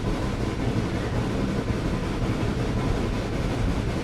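Excursion train running on the track: a steady low rumble and rattle with no distinct beat.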